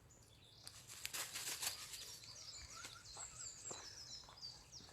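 Woodland songbirds singing: from about halfway through, a bird repeats a quick series of short, high, downward-slurred notes. About a second in there is a brief spell of rustling.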